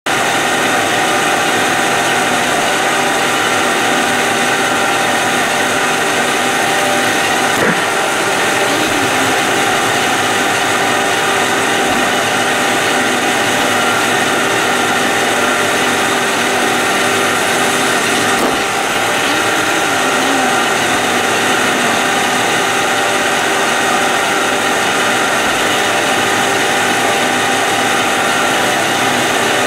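iRobot Roomba robot vacuum running: a steady whir of its vacuum motor and brushes with constant whine tones, and a brief knock about 8 seconds in and again around 18 seconds in.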